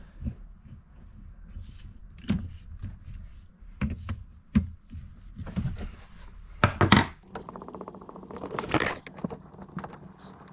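Knocks, taps and clatter of hands working at a boat's freshwater pump and its hose connections, with a loud sharp knock about seven seconds in, followed by a few seconds of fast, even buzzing rattle.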